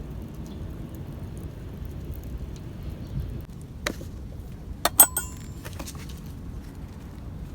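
Metal camp cookware clinking: one light clink about four seconds in, then two sharper clinks a second later that ring briefly, over a steady low background rumble.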